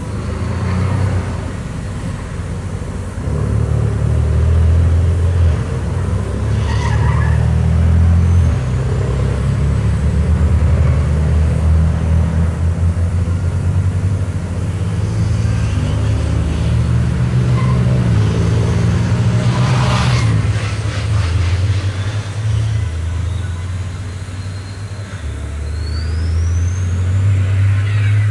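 Heavy race truck engines running loud, a deep drone that holds steady for a few seconds at a time and steps up and down in pitch several times.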